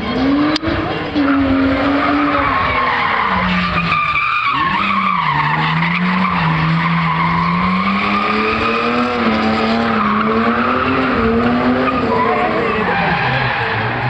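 Drift car engine revving hard, its pitch rising and falling with the throttle, with tyres squealing as the car slides.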